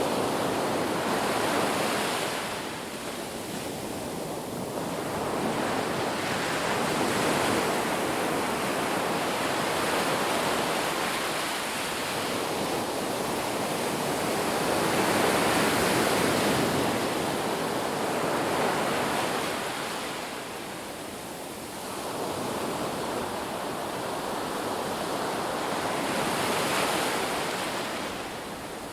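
Ocean surf washing onto a beach: a steady rush of noise that swells and eases every few seconds as waves break and draw back.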